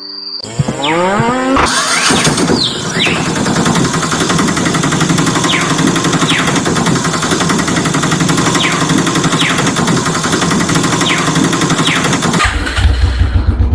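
An engine or motor starting up with a rising whine, then running steadily and loudly for about ten seconds. Music comes in near the end.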